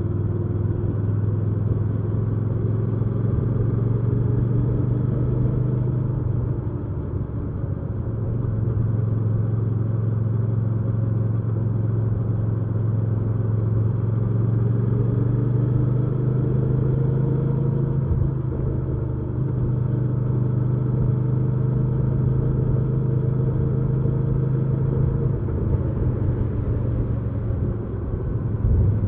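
Hyosung GV300S Aquila 300's V-twin engine running steadily while the bike is ridden. The engine note dips briefly three times and picks back up.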